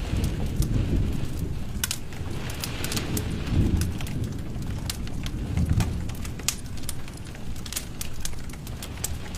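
Wood fire in a fireplace crackling, with many sharp pops and snaps over a low rumble that swells twice.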